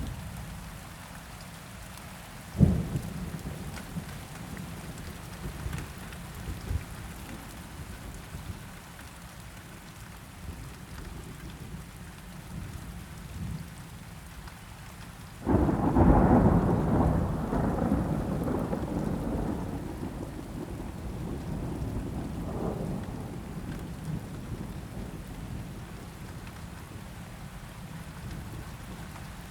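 Steady rain with thunder: a sharp crack about two and a half seconds in, then a long rolling rumble about halfway through that starts suddenly and fades away over several seconds.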